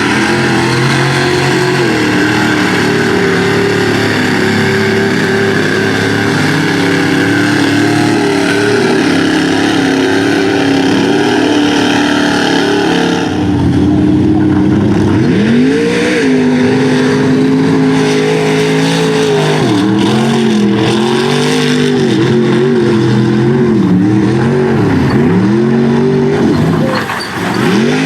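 Big-block V8 of a Ford Ranger mud truck running hard at high revs under a high hiss; about halfway through the hiss drops away and the engine revs rise and fall repeatedly.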